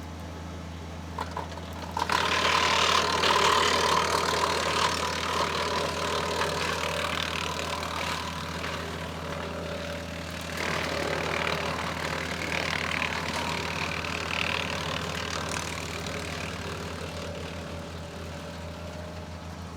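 An engine runs steadily underneath. About two seconds in, a much louder mechanical noise starts suddenly and slowly dies down, with a second rise about halfway through.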